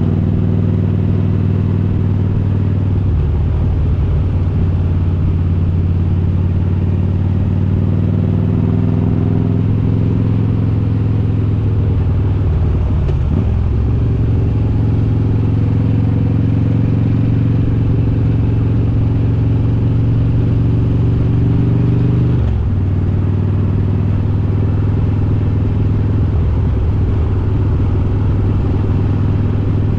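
Harley-Davidson Road King's S&S 95-cubic-inch V-twin engine running under way. The engine note holds steady, with brief dips and changes in pitch a few times, the most marked about 22 seconds in.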